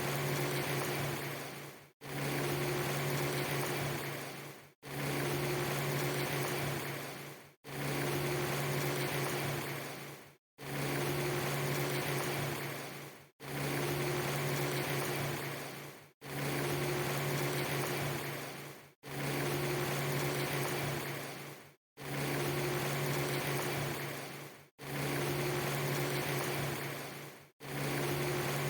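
Looped rain ambience: a steady hiss of rain with a steady low hum underneath. The same few seconds repeat over and over, each pass fading out into a brief dropout to silence about every three seconds.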